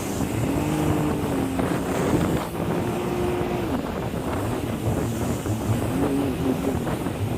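Jet ski engine running under way, its pitch rising and falling with the throttle, with wind buffeting the microphone.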